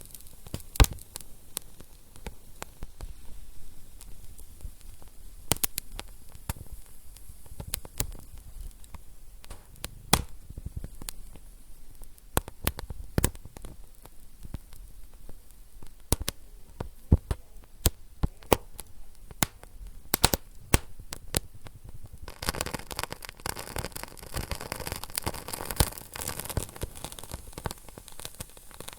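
Wood fire in a fireplace crackling, with frequent sharp, irregular pops. About three-quarters of the way through, a steady hiss joins the crackle.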